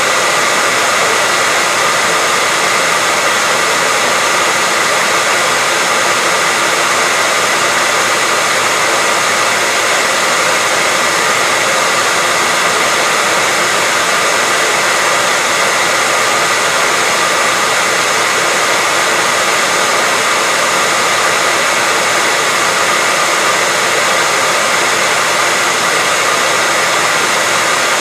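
Hair dryer running steadily at a constant speed, a dense even rush of air with a faint steady whine in it.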